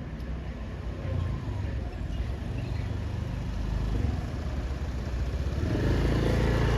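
A car's engine running in the street, growing louder about five and a half seconds in as the vehicle draws closer.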